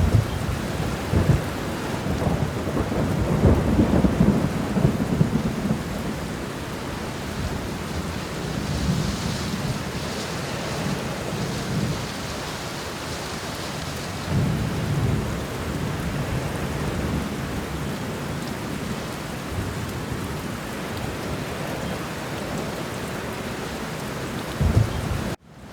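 Steady heavy rain with rumbles of thunder rolling underneath, strongest in the first few seconds and again around the middle. The sound cuts out for a moment near the end.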